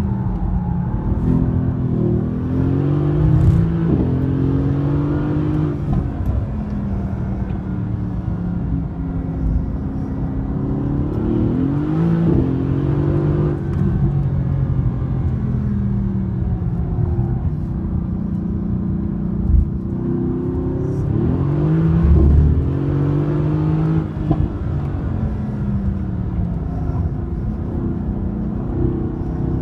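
Mercedes-AMG GT's 4.0-litre twin-turbo V8, heard from inside the cabin under hard track driving: the engine note repeatedly rises in pitch as it revs up, then drops back at each shift or lift-off before climbing again.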